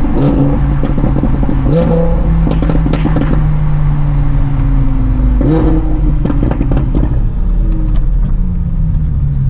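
Car engine running under way with a steady note that steps up in pitch about two seconds in and drops back about halfway through, with scattered sharp crackles.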